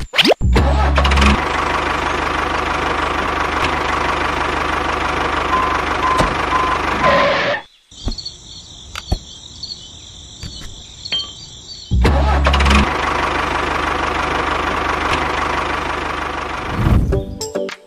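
A small motor running steadily, starting with a heavy low rumble. It cuts off abruptly about eight seconds in, goes quiet for about four seconds, then runs again from about twelve seconds.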